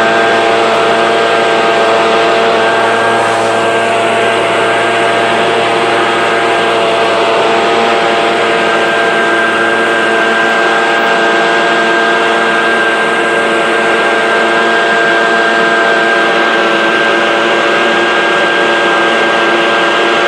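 RYOBI EBLK-2600 engine leaf blower running steadily at a constant speed, blowing somewhat wet fallen leaves.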